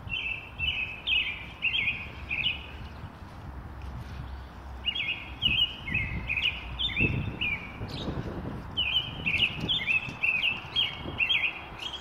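A songbird singing three phrases, each a run of short, clear repeated notes at about three a second, with pauses of about two seconds between phrases. A low rumble runs underneath.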